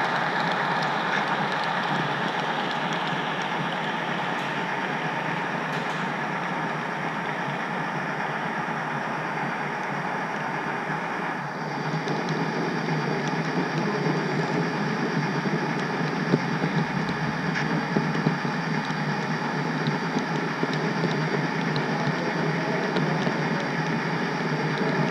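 HO-scale model train rolling along the track, heard from a camera riding on the caboose: a steady rolling hum and rattle that shifts in tone about halfway through, with a few sharp clicks later on as the wheels pass over rail joints.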